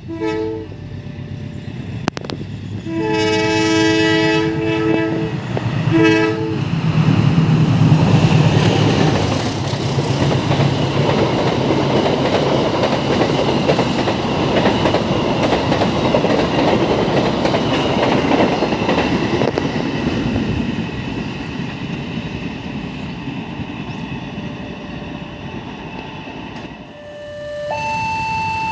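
Indonesian diesel locomotive hauling passenger coaches sounds its multi-tone horn three times, short, long, short, then rumbles past with wheels clacking over the rail joints, fading as the coaches go by. A two-tone electronic chime starts near the end.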